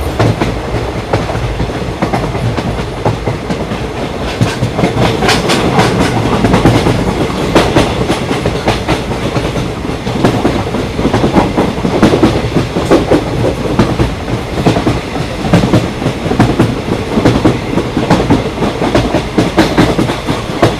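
Train running past, its wheels clacking steadily over the rail joints over a continuous rumble, a little louder from about five seconds in.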